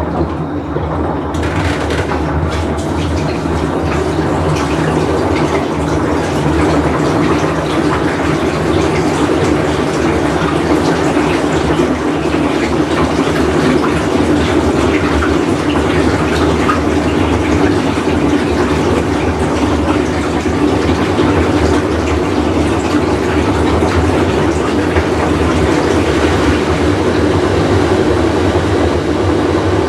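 Whirlpool Cabrio top-load washer running with a loud, steady rumble and hum that turns harsher and noisier about a second in, then stays level. The rumble is the sign of a failing tub bearing.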